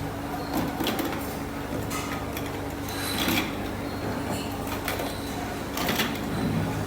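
Workshop machinery noise: a steady low hum with irregular scrapes and knocks of metal or wood being worked.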